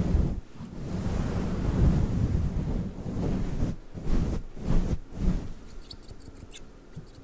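Fluffy microphone cover rubbed against the microphone, making muffled, rumbling swishes in uneven strokes. Faint crisp clicks come near the end.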